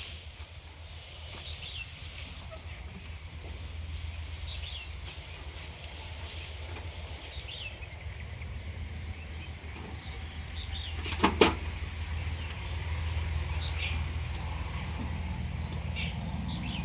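Short, high, falling chirps repeated every second or two over a steady low hum, with one sharp click about eleven seconds in.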